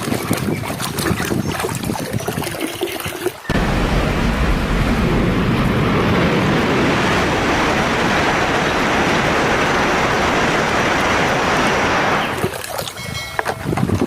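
Water splashing and dripping as muddy plastic toys are washed; about three and a half seconds in, a steady loud rush of running water starts suddenly, goes on for about nine seconds and stops, giving way to splashing again.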